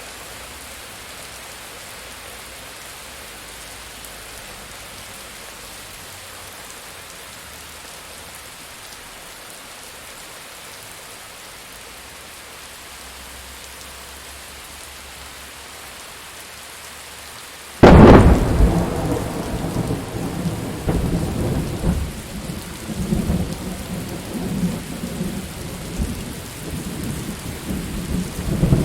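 Steady rain falling, then a sudden close thunderclap about two-thirds of the way in, followed by a long, low rolling rumble of thunder over the rain.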